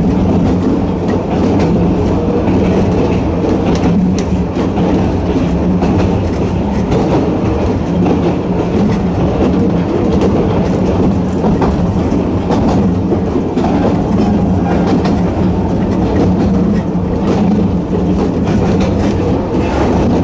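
Sangi Railway Hokusei Line narrow-gauge electric train running at steady speed, its nose-suspended traction motors giving a steady drone, with the clicks of wheels passing over rail joints.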